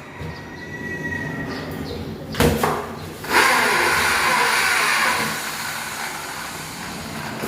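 Sliding window panel rolling along its metal track, with a short double knock about two and a half seconds in, then a longer loud rolling run that slowly dies away.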